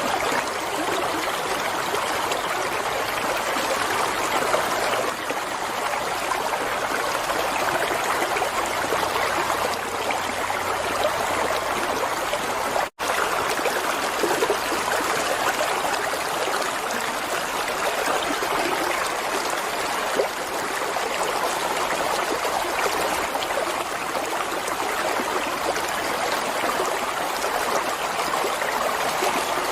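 Running water flowing steadily, a continuous trickling rush, broken once by a split-second dropout about halfway through.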